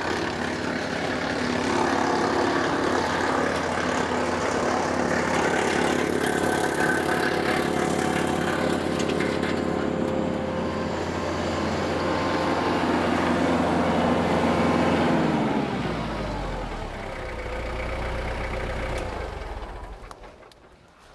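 Tractor running the Woodland Mills WC68 PTO wood chipper as it chips dry cedar branches, a steady engine tone under a crackling, grinding noise. About fifteen seconds in the engine and chipper wind down, the pitch falling, and a low hum fades out near the end.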